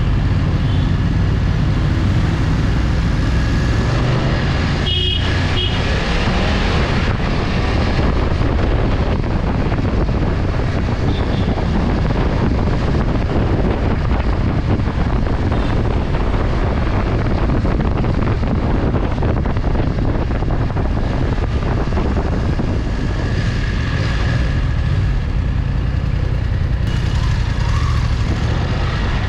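Riding along a road in traffic: steady wind rush and vehicle noise on the microphone, with a short high-pitched beep about five seconds in.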